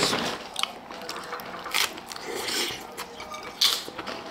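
A person chewing a bite of pizza, with irregular short mouth noises, a louder one a little under two seconds in and another near the end.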